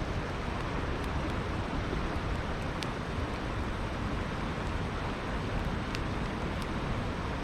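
Steady rush of flowing river water, with a few faint sharp crackles and pops from a wood campfire.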